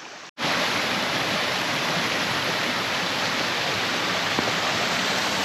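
Steady rush of creek water spilling over a waterfall or cascade, starting abruptly about a third of a second in.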